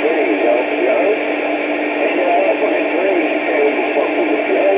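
Two-way radio receiver putting out a noisy incoming transmission. A steady hiss cut off above the radio's narrow audio range, a constant low hum tone, and wavering pitched sounds over it.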